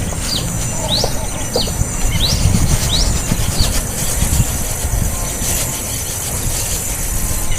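Small bird giving short, sharp chirps about every two-thirds of a second, six in all, stopping a little past halfway. A steady high-pitched hiss and low rumble run underneath.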